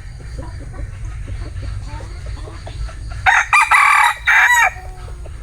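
A bantam rooster crows once, loud, about three seconds in, lasting about a second and a half, with a brief break before its final drawn-out note. Soft short clucks from chickens come before it, over a steady low rumble.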